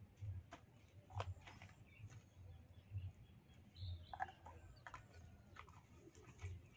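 Faint open-air ambience with scattered soft clicks and low thuds, and a few faint bird calls about four seconds in.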